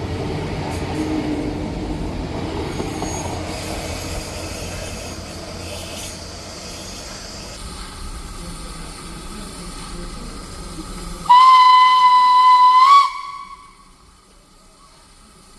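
A train's rumble fades away, then a steam locomotive whistle sounds one long steady blast of under two seconds. The pitch lifts slightly as the blast cuts off.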